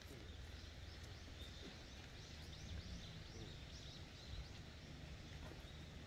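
Faint rapid series of short high chirps from small birds, over a low steady outdoor rumble.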